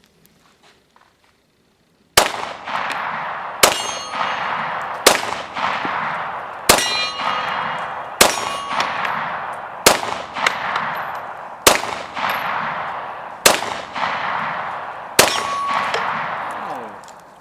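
FMK9C1 9mm pistol firing Remington Golden Saber 124-grain hollow points: nine shots at a steady pace, about one every second and a half, each followed by a long metallic ring, typical of hits on a steel target.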